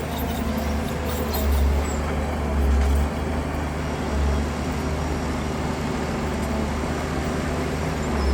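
Heavy diesel engine of earthmoving machinery running with a steady low drone, swelling louder three times in the first half as it is worked.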